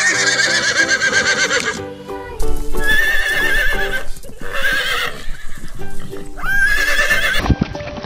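Horse neighing about four times, each a high, quavering whinny, the first and longest trailing off about two seconds in, over background music.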